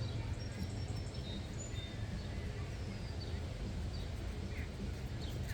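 Outdoor ambience: steady low wind noise on the microphone, with faint high bird chirps scattered through.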